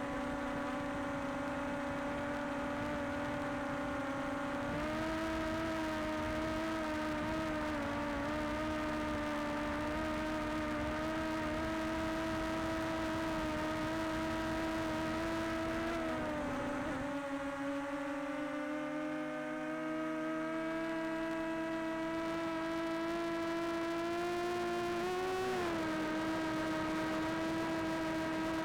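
Quadcopter drone's propellers whining in flight, a steady multi-tone hum whose pitch shifts as the drone manoeuvres. About two-thirds of the way through the tones split apart and glide to different pitches, then come together with a short rise near the end.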